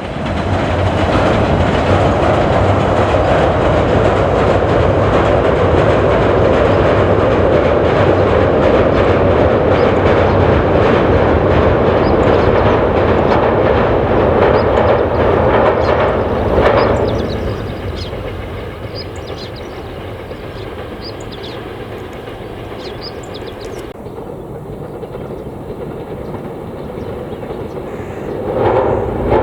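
Train running past close by, its wheels clattering over the rail joints. The sound is loud for about the first seventeen seconds, then fades to a softer rumble and swells again near the end.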